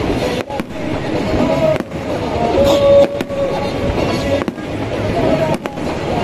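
Aerial fireworks in a finale barrage: repeated sharp bangs of shells bursting overhead, coming at uneven intervals, some close together. Music plays underneath throughout.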